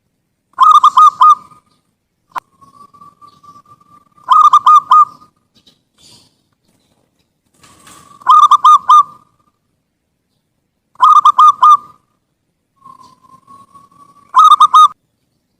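Zebra dove (perkutut) cooing: five loud short phrases of three or four quick rolling notes, one about every three seconds. Two of the phrases are led in by a faint, drawn-out note.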